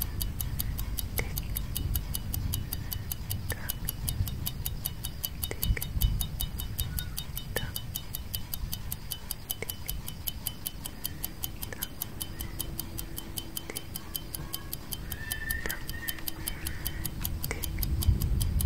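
Clock tick-tock sound effect: fast, evenly spaced ticks over a low rumbling background, with a few faint short chirps.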